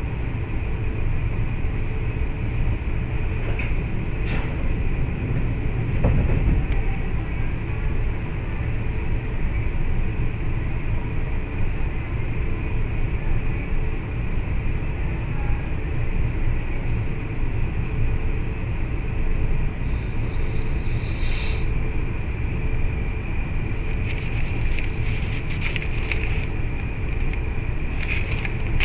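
Cabin noise of an E4 series Max double-decker Shinkansen running at speed: a steady low rumble with a faint even hum. Brief crackles come about two-thirds of the way through and again near the end.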